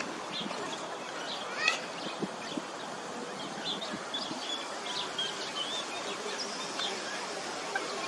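Scattered short bird chirps and calls over a steady background hiss.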